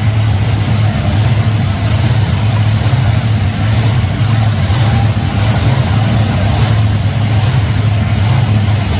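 Loud monster truck engines running with a steady low rumble, without clear rises or falls in revs.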